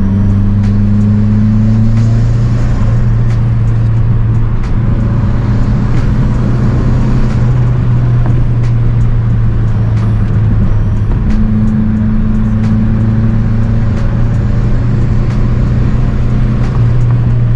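Mazdaspeed 3's turbocharged 2.3-litre four-cylinder, with an aftermarket intake, intercooler, cat-back exhaust and race pipe, running under way at fairly steady revs: a loud, steady low drone whose pitch shifts only slightly a few times. Faint scattered ticks sound over it.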